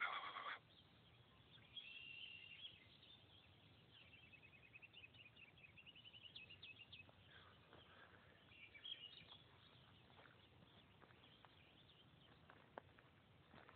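Faint songbird calls in woodland: a short trill about two seconds in, then a run of quick rising notes. A brief louder burst of sound comes right at the start.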